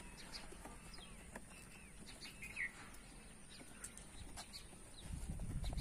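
Faint, scattered chirps of small birds, some short and some gliding in pitch. A low rumble comes in near the end.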